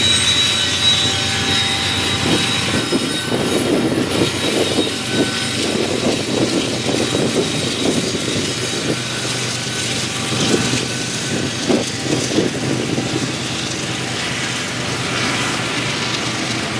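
Train rolling past: high steel-wheel squeal over the first few seconds, then a steady rolling rumble with irregular clunks from the cars.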